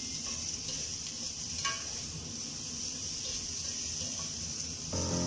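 Food sizzling in a hot wok on a gas hob as it is stirred with a spatula, with a light clack about a third of the way in. Background music comes in near the end.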